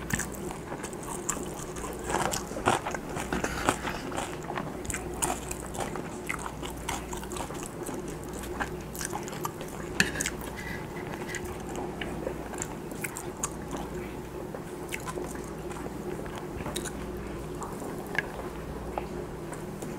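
Close-miked chewing of Spam and rice: irregular wet mouth clicks and smacks, busiest in the first few seconds. About halfway, a sharp knock as the wooden spoon scoops rice from the wooden bowl. A steady low hum runs underneath.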